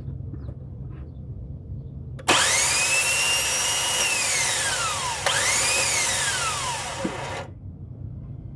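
Starter motor of a 2005 Jeep Liberty 3.7 V6 whining as the engine is turned over with no start, twice. The first whine spins up quickly, holds for about two seconds and winds down; the second spins up at once, then falls away about two seconds later. Under both, a steady low hum.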